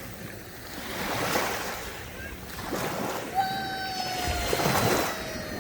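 Sea waves washing in, the noise swelling and easing in surges. From about three and a half seconds in, a long held tone, falling slightly in pitch, sounds over the surf.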